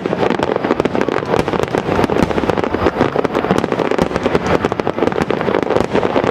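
Aerial fireworks going off in a dense, unbroken barrage of rapid bangs and crackles.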